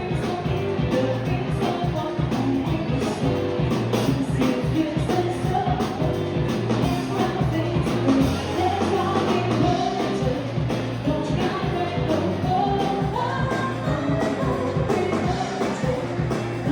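Live band playing an upbeat rock-and-roll or pop song with a singer, over a steady beat.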